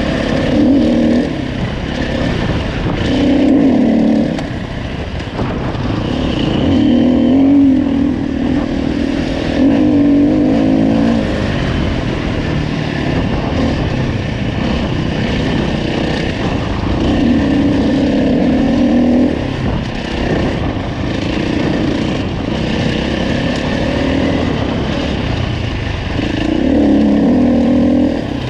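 Single-cylinder four-stroke engine of a 2015 Husqvarna FE 350 dirt bike under way, revving up in short bursts of throttle every few seconds and dropping back between them.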